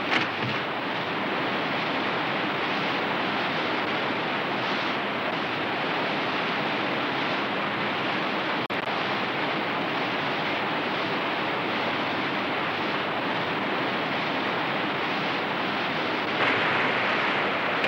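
Steady rush of white water through river rapids, broken for an instant about halfway through and a little louder near the end.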